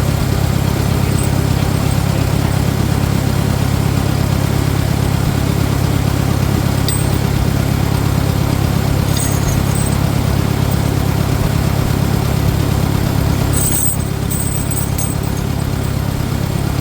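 Farmall 400 tractor engine running steadily, with a few faint clicks in the middle and near the end.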